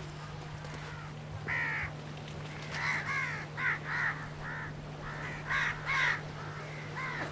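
Crows cawing: a single call, then runs of several short harsh caws in quick succession, over a steady low hum.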